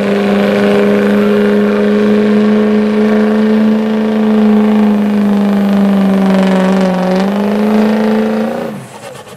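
Pulling truck's engine running hard at full load while dragging the pulling sled, holding one steady pitch, climbing a little about seven seconds in, then dropping away sharply near the end as the driver lets off.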